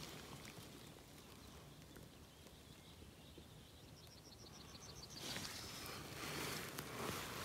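Faint open-air meadow ambience. About four seconds in a small bird gives a short, high trill of about ten quick notes, and then a rush of hissing noise swells up.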